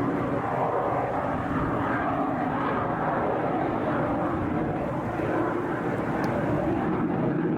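Su-57 fighter's jet engines during an air show display: a steady rush of jet noise that holds at an even level throughout, without clear rises or falls.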